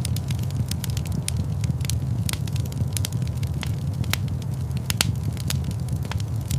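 Fire burning in a fireplace, crackling: frequent irregular sharp pops and snaps over a steady low rumble of flames.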